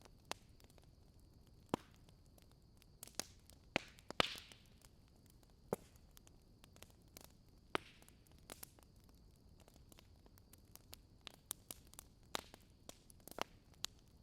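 Wood fire in a fireplace crackling, with irregular sharp pops and snaps, busiest about three to four and a half seconds in, over a faint steady hiss.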